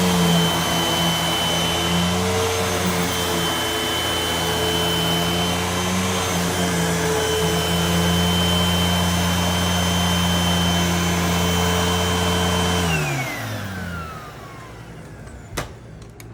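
Hoover WindTunnel upright vacuum cleaner running steadily, then switched off about 13 seconds in, its motor whine falling as it spins down. A couple of sharp clicks follow near the end.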